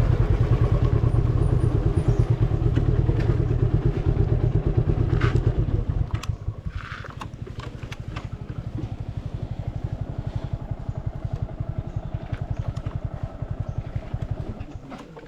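Suzuki Gixxer 155 single-cylinder motorcycle engine running, then dropping to a quieter, steady idle about six seconds in, with a few light clicks and knocks.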